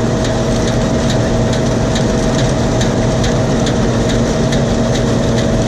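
John Deere 7720 combine running steadily, with a constant machine drone and two held tones. A light ticking repeats about twice a second throughout.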